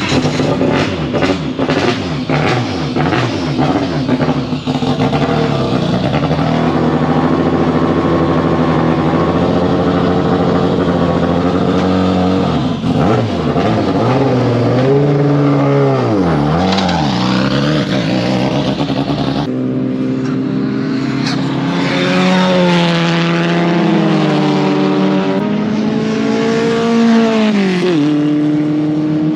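Onboard engine sound of a 400 hp open-wheel racing sports car at race pace. The engine note climbs and drops repeatedly as it accelerates, changes gear and brakes, with deep falls in pitch about halfway through and again near the end.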